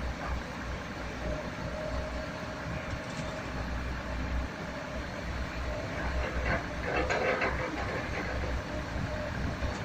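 Heavy tipper truck's diesel engine running with a steady low rumble. A louder hissing, noisy burst comes about six seconds in and lasts a couple of seconds.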